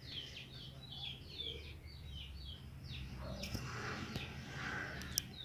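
A bird chirping: a quick run of short, high, falling chirps, about four a second, which stops about three seconds in.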